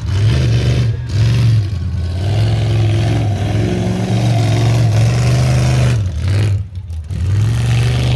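Modified Jeep's engine revving hard under load, its pitch rising and falling, with the throttle lifting briefly about a second in and again near two seconds, and a longer drop near the end.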